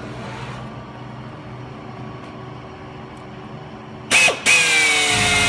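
Pleated fly-screen tulle drilling machine: a low steady hum, then about four seconds in its motor starts with a loud whine that sags slightly in pitch as it drills a hole through the clamped tulle.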